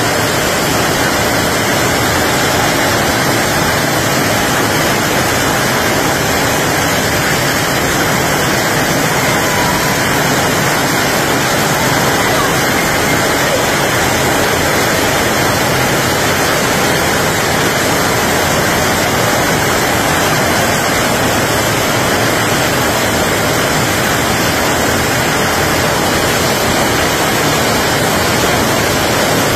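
Heavy rain pouring steadily onto a street and the puddles on it: a loud, even hiss.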